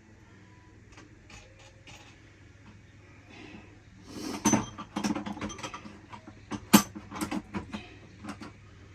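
Metal hand tools clinking and knocking in a series of sharp clicks, with one louder knock in the middle.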